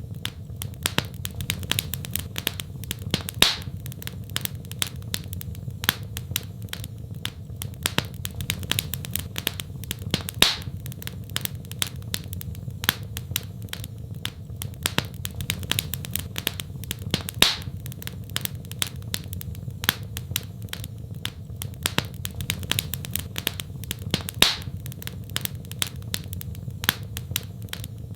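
Fireplace fire crackling: dense small crackles over a steady low rumble of the flames, with a louder pop about every seven seconds.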